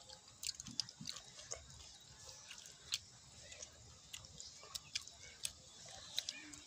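Several children chewing food, with irregular sharp clicks and smacks of wet mouths.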